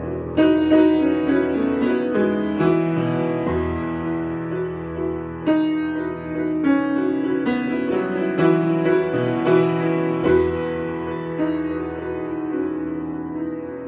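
Solo piano improvisation: chords and melody notes struck one after another and left ringing into each other.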